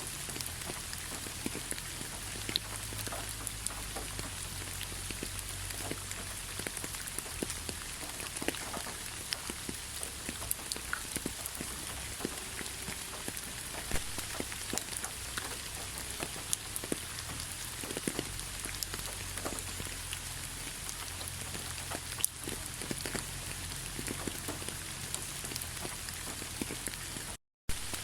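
Steady rainfall, a constant hiss with many individual raindrops ticking sharply on surfaces. It cuts out to silence for a split second near the end.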